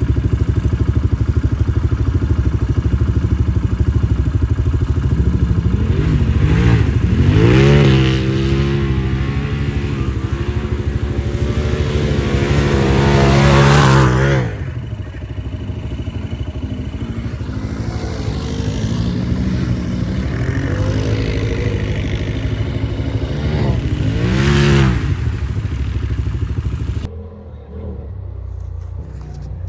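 Utility ATV engines running hard with rattling clatter, the engine note climbing and falling as the throttle is worked, three times over. Near the end the sound drops suddenly to a quieter engine.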